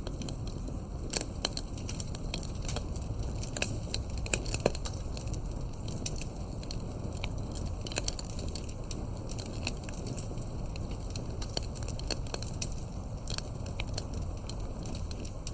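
Wood campfire crackling and popping: frequent irregular snaps over a steady low rumble of the burning fire, a few of the pops louder than the rest.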